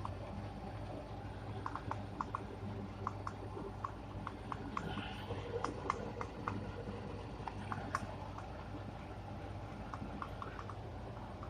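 Boba pearl-making machine running: a steady low motor hum with irregular light clicks and ticks scattered through it.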